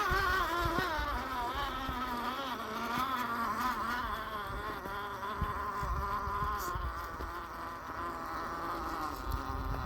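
RC rock crawler's electric motor and gear drivetrain whining, the pitch wavering up and down as the throttle changes, with scattered low knocks from the tyres and chassis on rock.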